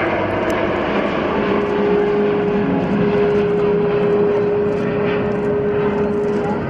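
Airbus A380's four turbofan engines at takeoff thrust just after lift-off: a loud, steady jet roar, with a steady tone coming in about a second and a half in.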